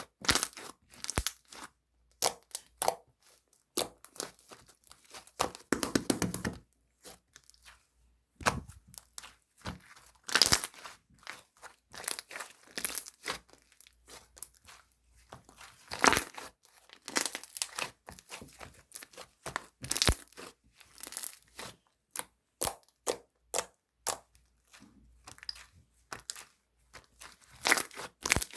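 An irregular run of short crinkling, rustling noises with sharper crackles among them, close up in a small room.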